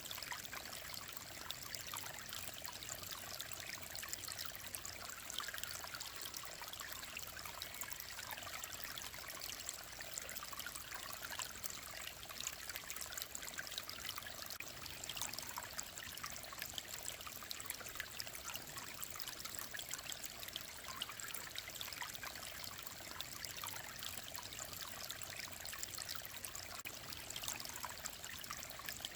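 Shallow mountain stream running over rocks: steady babbling and trickling of clear water.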